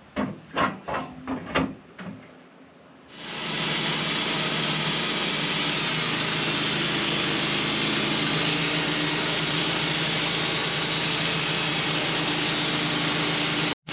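A few light knocks, then about three seconds in a band sawmill comes in loud and steady: the mill's engine running with the blade cutting through a hickory log.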